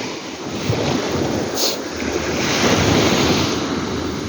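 Sea waves breaking and washing on a rocky shore, the surf swelling about two seconds in, with wind buffeting the microphone.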